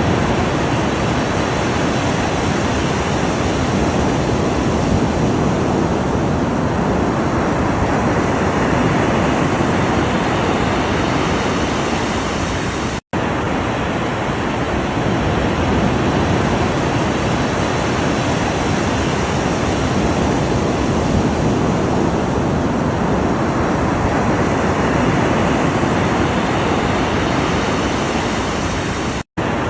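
Ocean waves washing in a continuous, dense surf noise that slowly swells and eases. The sound drops out to silence for an instant twice, about 13 seconds in and just before the end.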